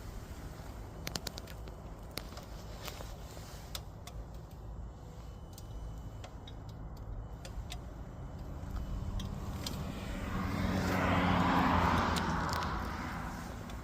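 A vehicle approaches, passes and fades away, its engine and road noise swelling to a peak about twelve seconds in. Before that, low background noise with scattered faint clicks.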